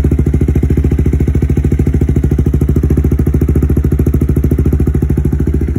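Honda CB300F single-cylinder engine idling steadily through a new Akrapovic carbon-fibre exhaust, an even, rapid pulse with no revving.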